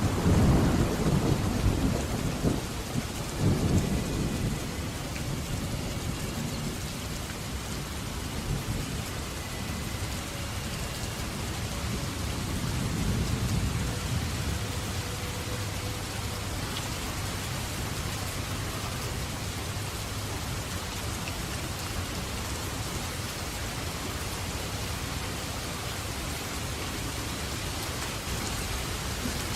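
Steady heavy rain with thunder. A loud low rumble of thunder opens and dies away over about four seconds, and a softer roll of thunder comes around the middle.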